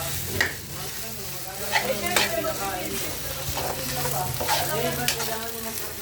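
Rice for sinangag (fried rice) sizzling in a hot pan as it is stirred, with a spatula scraping and knocking against the pan a few times.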